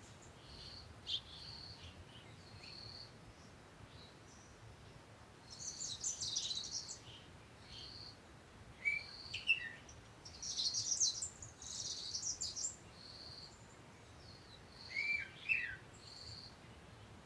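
Birds chirping and twittering, with a short high note repeating about once a second and two bursts of rapid twittering, plus a few short sliding calls.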